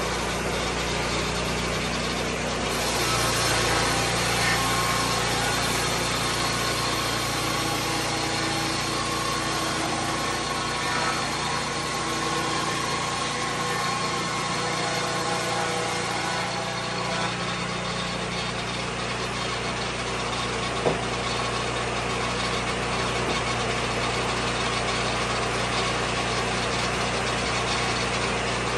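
Engine of a Lucas Mill 10-30 swing blade sawmill running at a steady speed, with one short sharp click about two-thirds of the way through.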